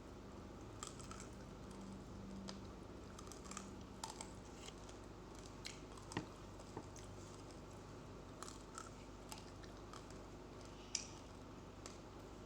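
Close-up chewing with scattered short, sharp crunches, irregularly spaced, the loudest about six and eleven seconds in: raw, uncooked rice grains being bitten and ground between the teeth.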